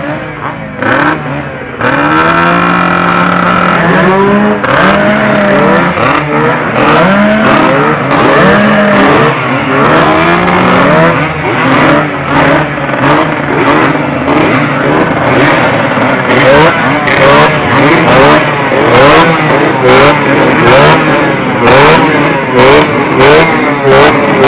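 Two-stroke motorcycle engines being revved, the pitch rising and falling again and again in quick throttle blips that overlap, with sharp crackles throughout; the blips come faster near the end.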